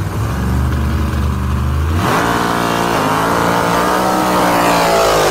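Drag car's engine running at a steady low idle, then revved up sharply about two seconds in and held at high revs. It cuts off suddenly at the end.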